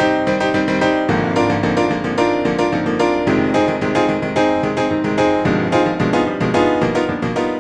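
Piano music, a quick run of notes over held chords.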